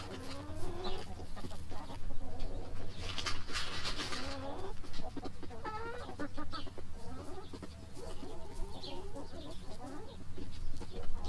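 Chickens clucking and calling in short wavering notes, with a brief rushing hiss about three seconds in.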